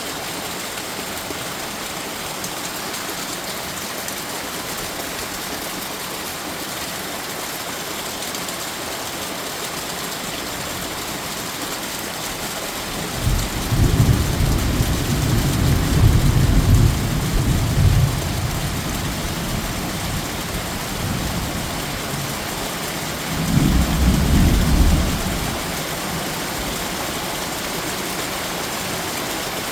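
Heavy rain pouring with a steady hiss, and thunder rolling twice: a long low rumble about halfway through, lasting several seconds, and a shorter one near the end.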